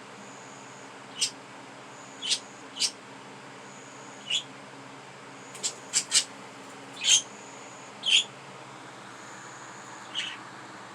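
Pet budgerigars giving short, sharp chirps, about ten of them at irregular intervals, over a steady low hum.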